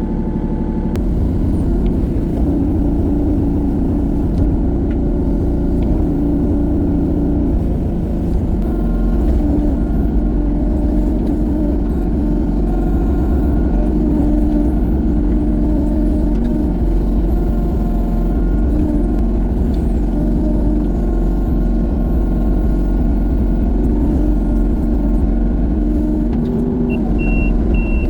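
Compact excavator's diesel engine running steadily at working revs while it digs, with tones that shift up and down in pitch. A short high beep sounds a couple of times near the end.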